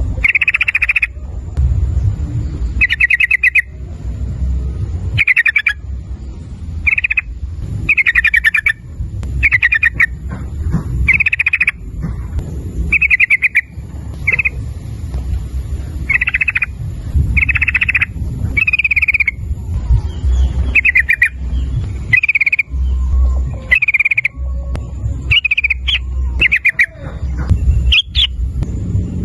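Yellow-vented bulbul (trucukan) singing short bubbly chattering phrases, repeated about every second or so, over a steady low rumble.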